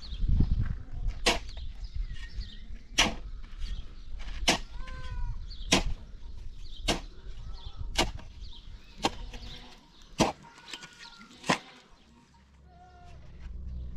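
Regular sharp tool strikes, about one every second and a quarter, from work on a building site. Small birds chirp between them.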